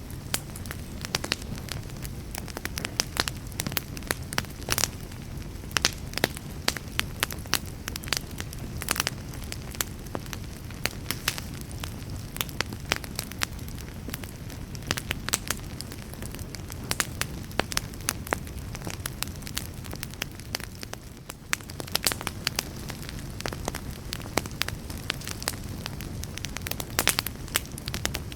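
Wood fire burning in a fireplace: constant sharp crackles and pops over a low, steady rumble of the flames.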